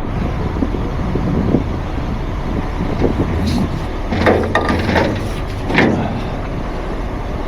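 Diesel truck engine idling steadily, with a few short bursts of noise between about three and six seconds in.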